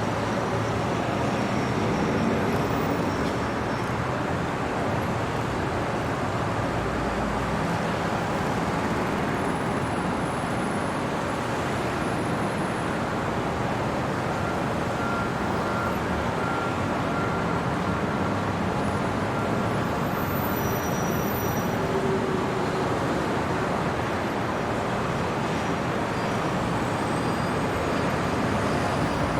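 Steady hum of city traffic: an even wash of road noise with no single vehicle standing out.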